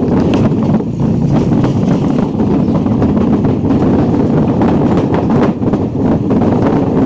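Steady, loud wind buffeting on the microphone of a moving motorcycle, with the bike's engine and road noise running underneath.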